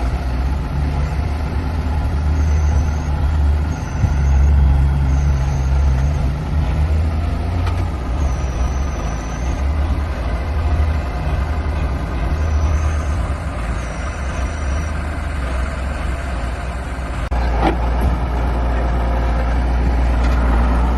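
Cummins diesel engine of a Dongfeng flatbed truck running, a steady low rumble that changes to a denser, more even rumble about 17 seconds in.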